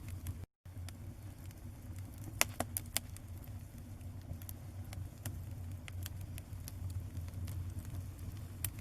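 Fire crackling, with scattered sharp pops over a steady low hum. The sound drops out briefly about half a second in.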